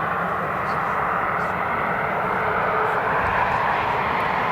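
Steady jet aircraft engine noise, a rushing sound that grows slowly louder.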